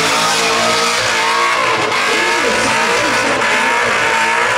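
Holden VE Commodore's engine revving hard during a burnout, the revs wavering up and down, with the rear tyres spinning and squealing.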